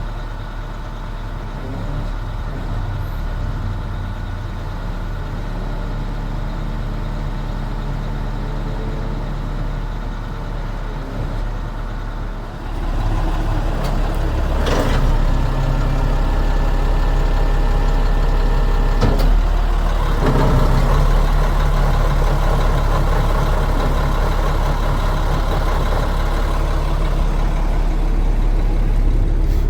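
Diesel engine of a 2001 International 4800 bucket truck running steadily, picking up speed and getting louder about twelve seconds in. Two short, sharp noises follow a few seconds apart.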